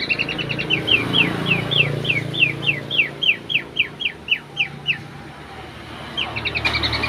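Bird singing: a quick stutter of notes, then a long run of clear whistled notes, each sliding downward, about four a second. After a short pause a fast stuttering run of notes starts again near the end.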